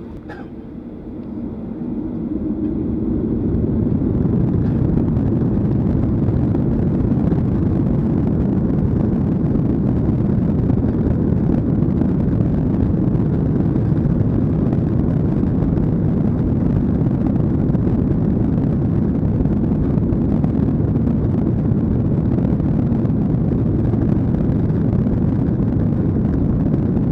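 Boeing 737-800's CFM56 jet engines spooling up to takeoff thrust, heard from inside the cabin. The deep rumble builds over the first few seconds, then holds steady and loud through the takeoff roll.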